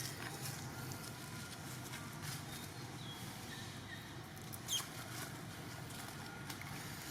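Outdoor ambience with scattered light rustling and clicks, a few faint short chirps, and one short falling squeak a little past the middle.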